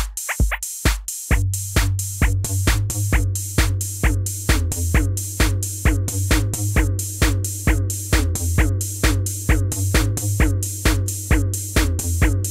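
Electronic background music with a fast, even drum-machine beat, about four hits a second, over a held bass line that comes back in about a second in.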